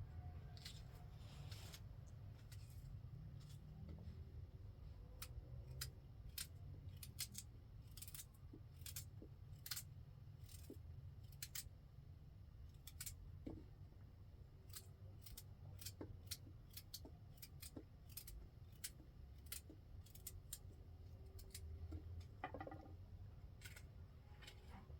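Faint, irregular sharp clicks or snips, sometimes several a second, over a low steady rumble.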